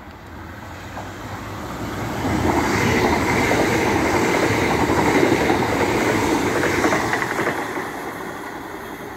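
Class 802 bi-mode express passing at speed on its diesel engines. The rush of engine and wheel noise builds over the first two seconds, stays loud as the coaches go by, and falls away near the end.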